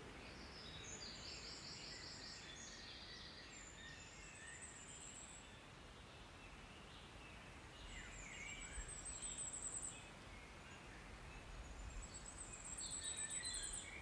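Songbirds singing: a few high, thin trilled phrases every few seconds, the two near the end the loudest, over a faint steady background hiss.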